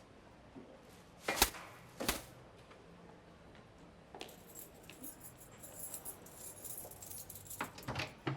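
Two sharp knocks, about half a second apart, then a run of light metallic jingling and clicks that grows busier near the end.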